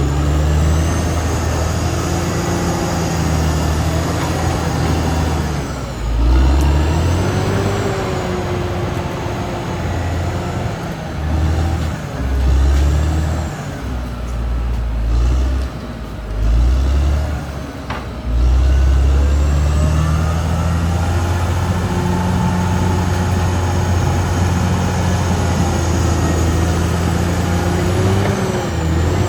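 Caterpillar D6R XL bulldozer's diesel engine working under changing load, its pitch rising and falling again and again, with a high whine that follows it. It runs more evenly in the last third.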